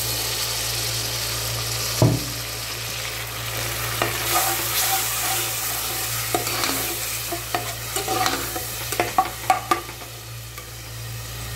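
Onions frying in oil in an open pressure cooker, sizzling steadily, as crushed ginger and garlic go in and a steel ladle stirs and scrapes the pot. There is a sharp knock about two seconds in and a run of clicks and scrapes from the ladle near the end.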